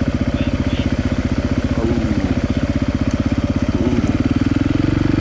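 Dirt bike engine idling with a steady, even beat, picking up slightly near the end.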